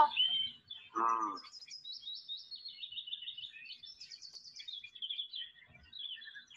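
Birds chirping and twittering in a quick stream of high trills, with one brief low voiced sound about a second in.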